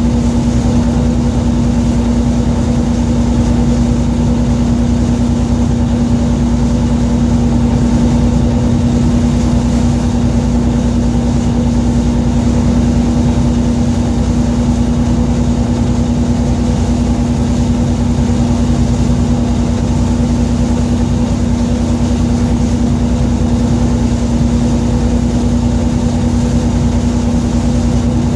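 Fishing boat's engine running steadily: a constant low drone with a steady hum, unchanging throughout.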